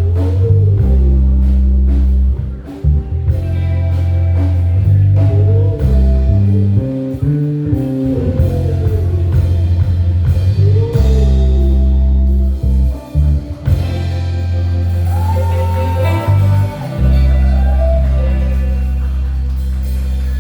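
Live band playing a blues-flavoured groove: a heavy, sustained electric bass line under a lead melody that slides and bends between notes.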